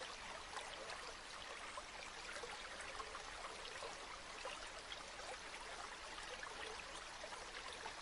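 River water flowing and babbling steadily over stones, a soft even rush full of tiny splashes.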